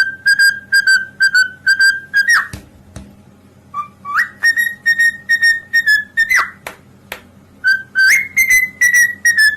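Parrot whistling: a run of short whistle notes, about four a second, ending in a quick upward sweep, then a long held whistle note with a rising flourish, and more held notes near the end.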